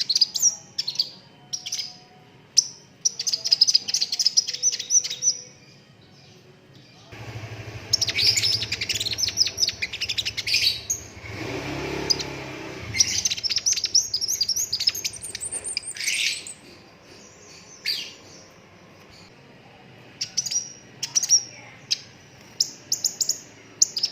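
Sunbird singing in bursts of rapid, high, chattering chirps and trills, with short pauses between phrases. A low rumble runs under the middle part.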